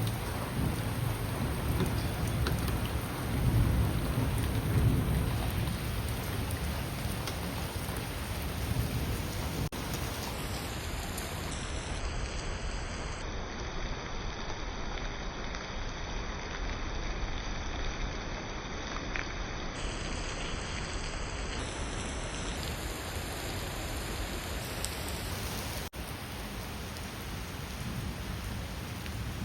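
Steady heavy rain, with low rolls of thunder in the first several seconds.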